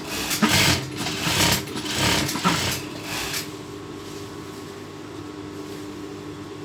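Sewing machine stitching in a few short runs for about three seconds, then stopping, with a steady low hum underneath.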